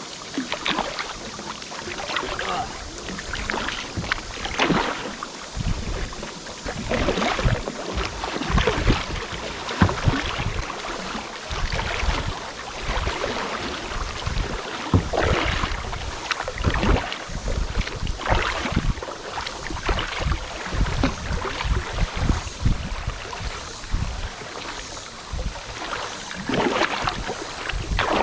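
Paddle strokes in river water: repeated, irregular splashing as a kayak or canoe is paddled along.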